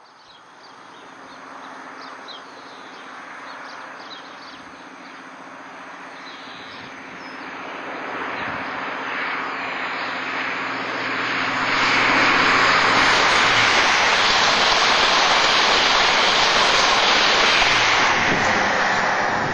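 Express passenger train approaching and passing at speed: a faint rumble that grows over about twelve seconds into a loud, steady rush, beginning to fade near the end.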